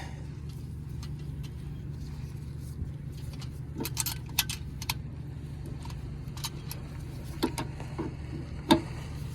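Metallic clicks and clinks of an adjustable wrench tightening the fastener on a bus air filter housing. They come in a cluster about four seconds in and again near the end, over a steady low hum.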